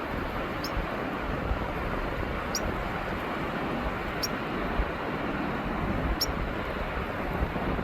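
A steady rushing noise, with a short high chirp about every two seconds.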